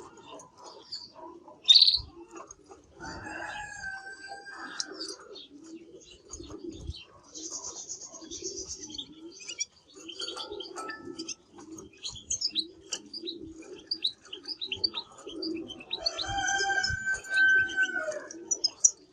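Canary singing: fast high trills and rolling phrases, with two longer passages of held, fuller notes, one early and one near the end, and a loud sharp chirp just under two seconds in. A low, steady cooing-like hum runs underneath.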